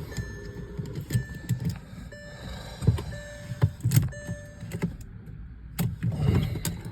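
A car's starter being tried on a weak, nearly flat battery: irregular low thumps and clicks instead of the engine catching, with short electronic beeps from the dashboard.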